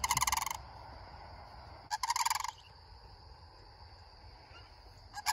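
A bird giving a loud rattling call three times, each about half a second long and a couple of seconds apart.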